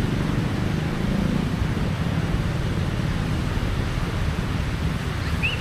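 Gentle sea waves washing onto a beach, a steady rushing with a wind rumble on the microphone. A short high chirp sounds near the end.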